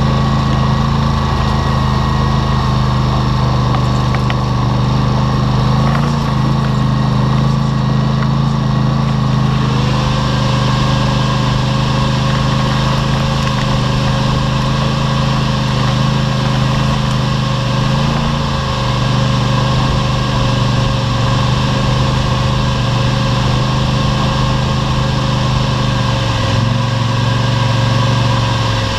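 ATV engine running steadily, its pitch dipping briefly a few times as the throttle changes. A thin steady whine joins about ten seconds in.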